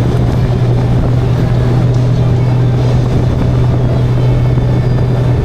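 Motorcycle riding at a steady cruising speed: a constant engine drone, with no change in revs, under a thick wash of wind and road noise.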